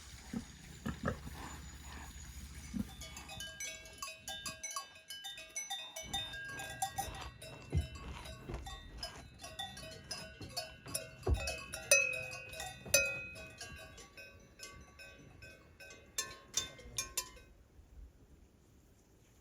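Several livestock bells clanking irregularly, with ringing tones at different pitches, stopping abruptly about seventeen seconds in.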